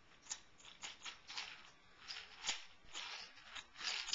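Irregular light clicks and rustling of small objects, likely toys, being handled, about a dozen short ticks, the loudest a little past halfway and near the end.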